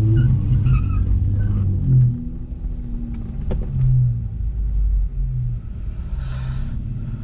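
A Dodge Charger's 3.6-litre Pentastar V6 running steadily at low revs, with a short hissing rush about six seconds in.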